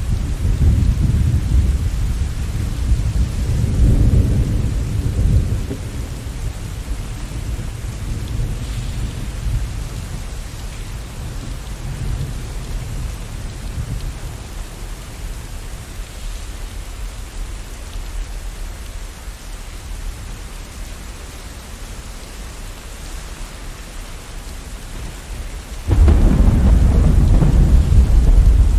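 Steady rain falling in a thunderstorm. Thunder rumbles for the first few seconds and fades, then a loud new peal of thunder breaks in suddenly near the end.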